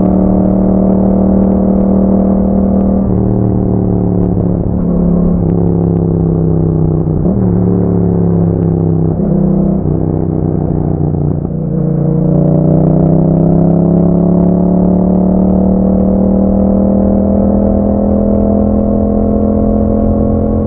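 Yamaha MT-07's 689 cc parallel-twin engine running through an Akrapovic exhaust. The note changes pitch several times in the first half, dips briefly about midway, then climbs slowly and steadily as the bike accelerates.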